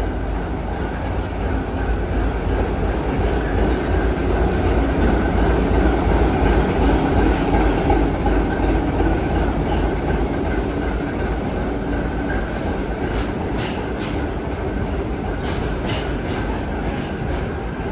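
TEM18DM diesel-electric shunting locomotive passing close by, hauling a train of empty open freight wagons. The engine's hum over the heavy rumble of rolling wheels is loudest in the middle, then the wagons roll past with a few sharp wheel clicks over the rail joints near the end.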